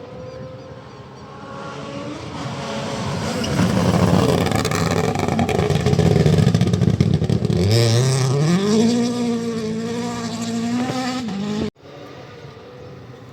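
Rally car at full speed on a special stage, growing louder as it approaches and passes, then its engine note climbing in revs as it pulls away under acceleration. The sound cuts off suddenly near the end.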